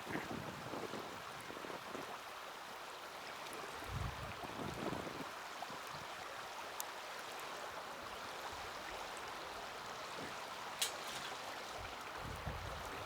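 Small wood fire burning in a mini fire stand: a steady hiss with a couple of sharp crackling pops, the loudest near the end, and low rumbles of wind on the microphone.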